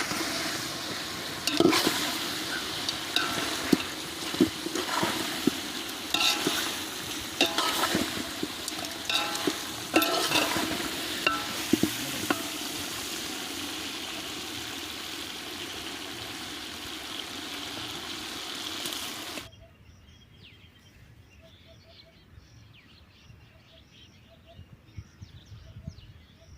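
Food sizzling and frying in a pan while a ladle stirs it, knocking against the pan with repeated sharp clacks. About three-quarters of the way through, the frying sound cuts off abruptly, leaving a much quieter background with faint ticks.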